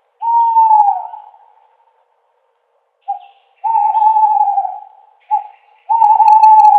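Owl hooting: one hoot that falls in pitch, then twice a short note followed by a long held hoot.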